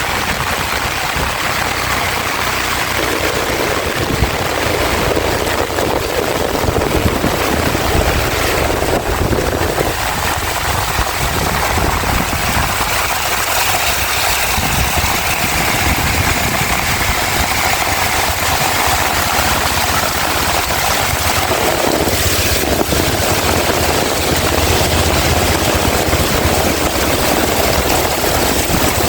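Heavy rain pouring steadily, with strong wind.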